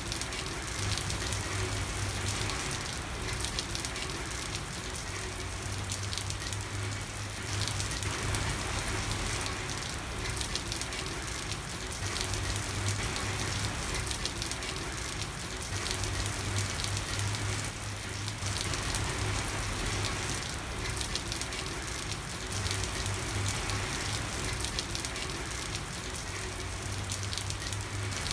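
Steady rain falling and pattering on a street, an even hiss of drops with a faint low hum underneath that comes and goes.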